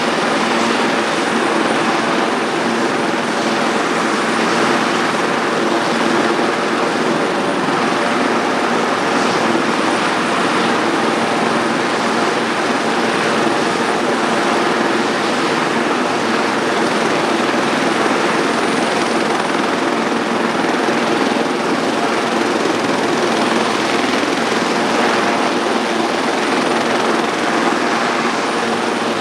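Sikorsky S-76C helicopter running steadily: its twin turboshaft engines give a thin, steady high whine over a dense, even rotor and engine noise that holds several steady lower tones.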